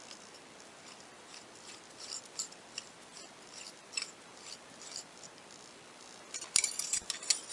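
Metal parts of a slide-hammer dent puller being fitted together by hand: faint scattered ticks and light scrapes, then a busier run of metal clicks and clinks near the end as a piece goes onto the end of the puller.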